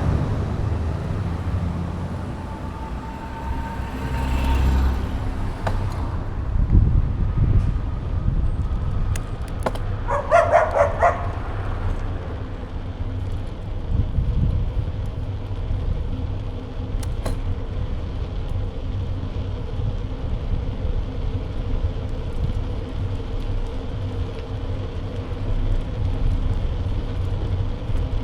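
Wind and road rumble on a bike-mounted action camera while riding, a steady low roar, with a brief louder sound about ten seconds in.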